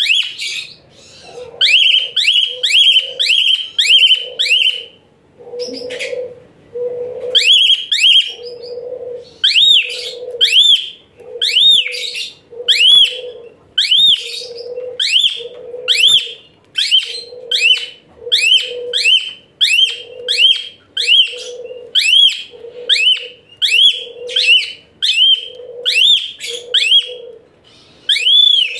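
Jalak suren (pied starling) singing a long series of loud, high, shrill whistled notes, each rising and falling in pitch, at one to two notes a second with a harsh lower tone under each, broken by a short pause about five seconds in.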